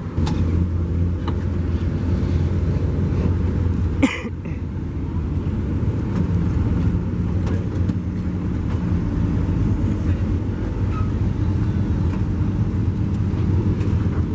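A car engine running steadily with a low, even exhaust note, with one short sharp sound about four seconds in.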